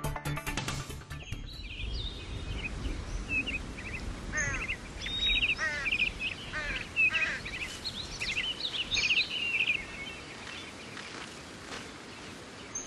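Birds chirping and singing in quick, repeated trills over a steady outdoor background hiss; the calls thin out over the last few seconds.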